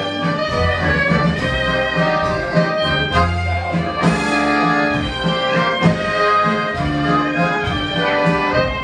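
Klezmer band playing an instrumental break: fiddle and horn carry the melody over a steady bass line with an even beat.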